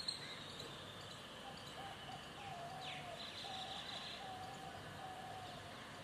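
Faint bird chirps and calls over steady outdoor background noise, with one short click just after the start.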